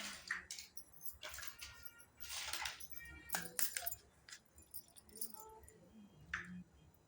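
Small toy kitchen pieces being handled and set down: irregular light clicks, clinks and scrapes, some ringing briefly.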